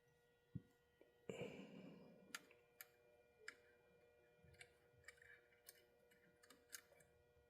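Near silence broken by faint, scattered small clicks and taps, with a brief rustle about a second in: small plastic and metal parts of an HO model locomotive being handled and fitted together by hand. A faint steady hum runs underneath.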